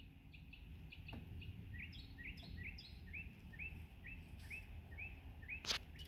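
A bird calling a quick, even series of short chirps, about two or three a second, growing louder, with a sharp click near the end.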